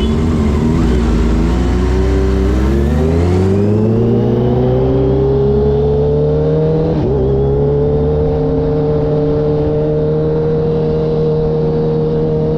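Kawasaki H2 motorcycle engine under way: the note wavers briefly, then climbs steadily for a few seconds as the bike accelerates, breaks for a moment about seven seconds in, and settles into a steady high cruising note.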